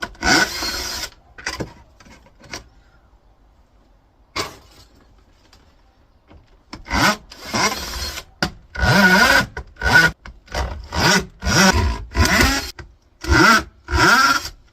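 Scraping and prying at a monitor stand's base: a long scrape at the start, a sharp click about four seconds later, then a run of short rasping strokes, about two a second, as the stand's pads and plastic piece are worked off the metal bottom plate.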